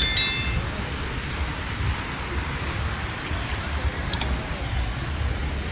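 Downtown street traffic noise: a steady hiss of passing vehicles over a low, fluttering rumble. A short high-pitched chirp sounds right at the start, and a couple of faint clicks come about four seconds in.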